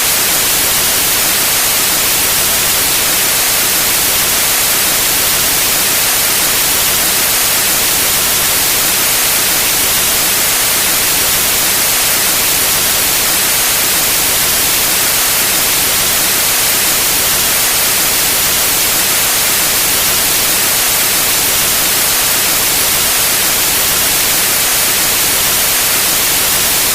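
Steady white noise: an even, unbroken hiss, brightest in the high end.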